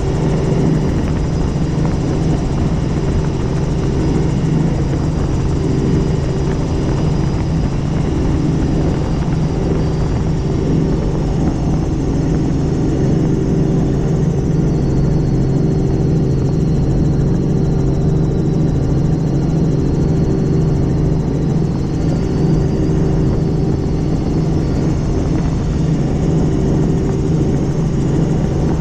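Helicopter in flight: steady, loud rotor and engine noise with a constant low hum that does not change.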